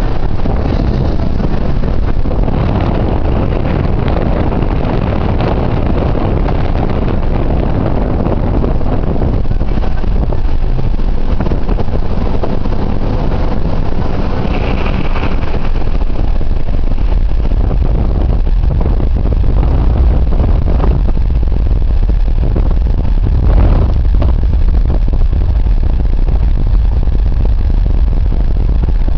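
Car driving, its engine and road noise a loud, steady low rumble.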